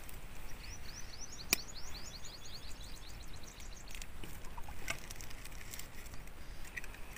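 A bird singing a quick run of short rising chirps for about three seconds, with a single sharp click about one and a half seconds in and a few faint taps later.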